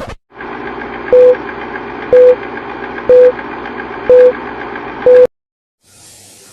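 Five short, loud electronic beeps at one pitch, about a second apart, over a steady hum and hiss that cuts off suddenly just after the fifth beep.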